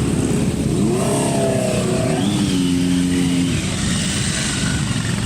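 Motorcycle engines running, with one revving up about a second in and holding a steady note briefly before dropping away.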